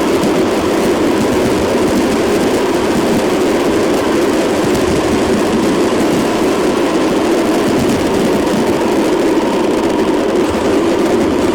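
A vehicle in motion, heard as a steady, unbroken rumbling noise with a faint steady hum above it.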